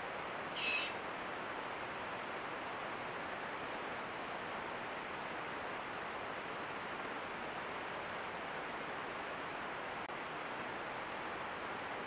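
Steady hiss of background noise, with one short, high animal call about a second in.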